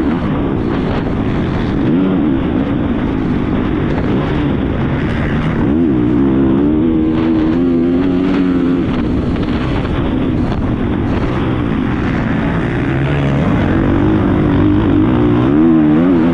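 Honda CRF450R four-stroke motocross bike engine at race pace, its pitch rising and falling again and again as the throttle opens and shuts through the gears, over heavy wind and track noise.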